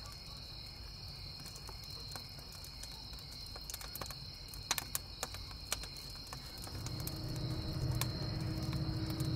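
Crickets chirping steadily over a wood campfire crackling with scattered sharp pops. Near the end a distant train's low rumble builds, with a faint steady low tone coming in.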